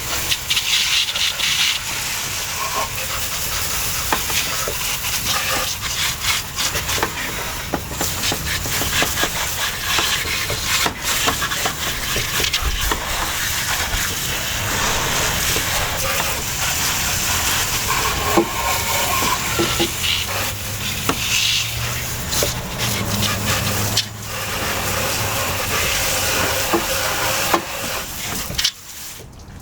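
Water from a garden hose spray nozzle at low pressure, hissing and spattering steadily over an engine bay as it rinses off soaked-in degreaser and dirt. The spray cuts off about a second before the end.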